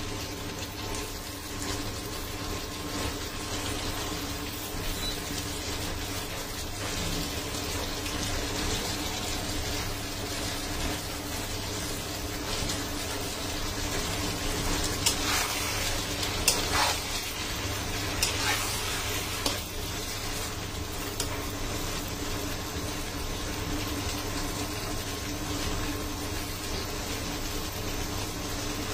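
Okra and potatoes sizzling in spice paste in an uncovered pan, a steady frying hiss, with a few brief spatula strokes between about 15 and 19 seconds in as the vegetables are stirred.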